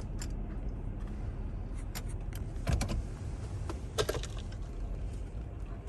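Steady low rumble of a car running, with a few sharp clicks and rattles on top; the loudest come in a quick cluster a little before halfway and as a double click shortly after.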